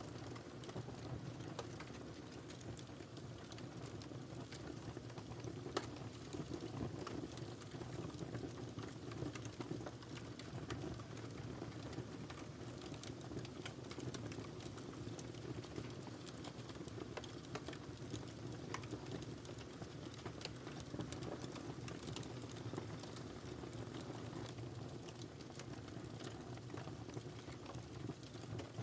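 Wood fire crackling in a fireplace: a steady low rush of flames with irregular sharp pops and snaps scattered through it.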